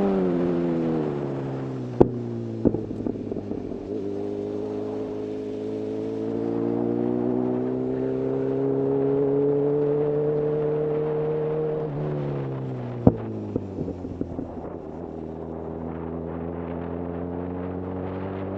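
Honda CB1000R inline-four with a full-system Black Widow exhaust, riding along. The exhaust note falls as the throttle closes, climbs slowly under gentle acceleration, falls again about two-thirds of the way through, and starts to rise near the end. A few sharp cracks come while the revs are falling.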